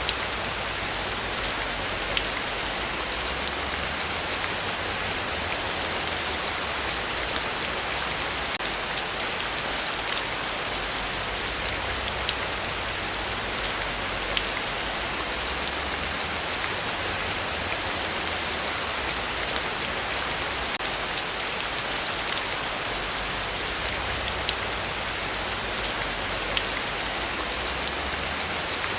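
Heavy rain falling steadily, an even hiss of drops with fine pattering, unchanging in level throughout.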